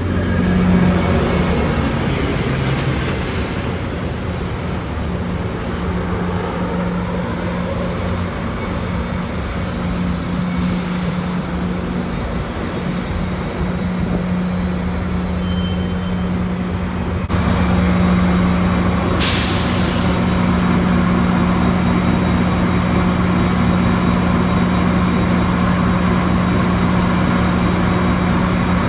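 Metrolink commuter train with an MP36PH-3C diesel locomotive, its engine running with a steady low hum over train noise. Faint high brake squeals come in the middle, and a short sharp burst of air hiss from the air brakes follows about two-thirds of the way through.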